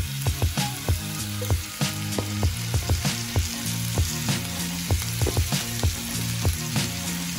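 Oxtails and sliced peppers and onions dropping into hot oil, butter and garlic in an enamelled pot, sizzling with frequent sharp pops. Background music with low bass notes plays underneath.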